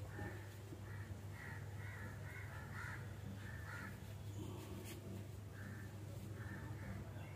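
Birds cawing repeatedly in short calls, several a second in bunches, over a steady low hum.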